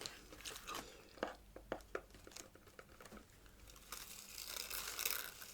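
Crinkling packaging being handled, with scattered sharp clicks at first and then denser, louder rustling from about four seconds in.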